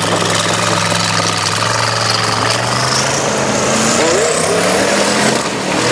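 Custom twin-turbo Ford engine of an off-road race truck running at low revs for about three seconds, then its note rising as it is revved. A high whine climbs at the same time.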